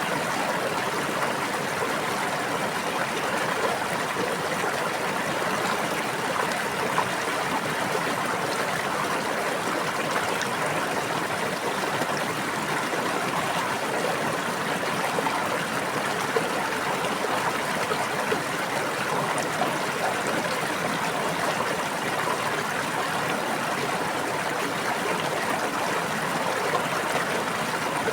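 Water of a small stream or brook babbling steadily, with an even rush of flowing water and occasional small splashes.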